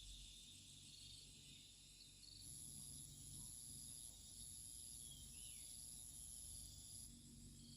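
Faint chorus of insects in the countryside: a high, pulsing chirring throughout, with a higher steady buzz that joins about two and a half seconds in and stops near the end.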